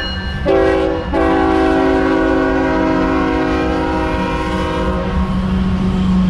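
Diesel freight locomotive's air horn sounding a multi-note chord: a short blast, then a long blast of about four seconds. A steady low engine rumble runs underneath.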